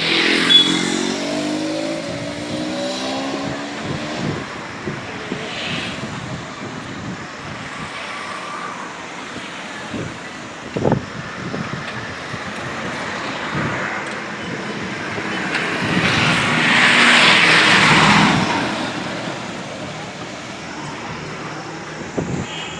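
Outdoor road traffic noise with distant voices; one vehicle passes close, its noise swelling and fading away between about 16 and 19 seconds in.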